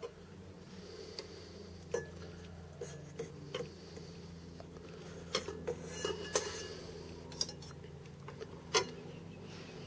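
Scattered light clicks and clinks of small metal tools being handled against metal, about a dozen spread over several seconds, over a steady low hum.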